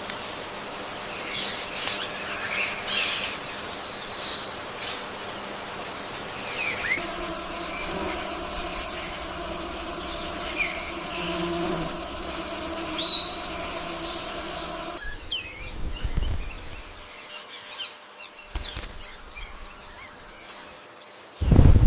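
Birds chirping and calling in short, scattered notes over steady forest ambience with an even high-pitched hum. The background changes abruptly about 15 seconds in, and a loud low thump comes near the end.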